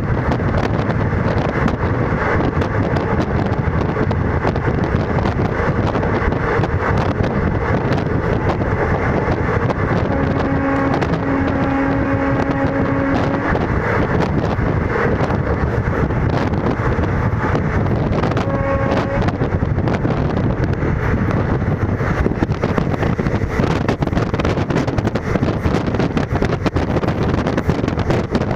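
Indian Railways ICF passenger coach running at about 110 km/h: a steady, loud rumble and rush of wind from the moving train. A held pitched tone sounds for about three seconds near the middle and briefly again later.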